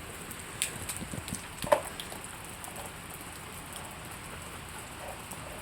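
Steady rain falling, an even hiss, with a few short taps or knocks about half a second in and again near two seconds in.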